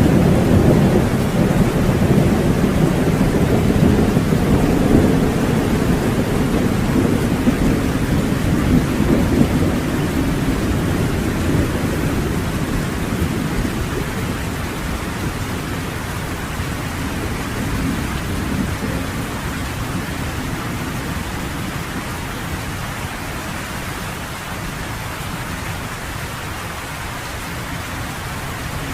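Steady rain pelting on a cabin porch, with a long roll of thunder that rumbles through the first half and slowly fades away, leaving only the rain.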